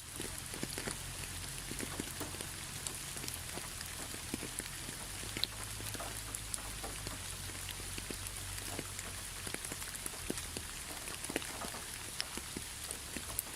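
Steady rain falling, an even hiss with many individual drops pattering close by, over a low rumble.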